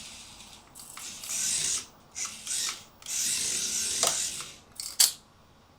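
Mini 1:64 rear-wheel-drive RC drift car's electric motor and gears whirring in three short throttle bursts, the longest about a second, as it is driven in a donut attempt. A sharp click about five seconds in.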